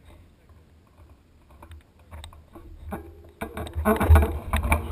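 Mountain bike clattering and rattling over a rough trail, a quick run of clicks and knocks over low rumble that grows much louder about three and a half seconds in.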